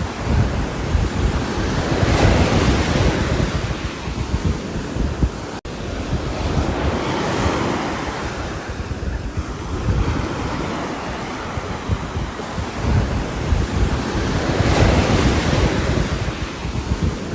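Rain falling on a roof as a dense, continuous hiss with a deep rumble underneath, swelling and easing every few seconds. About five and a half seconds in, it cuts out for an instant.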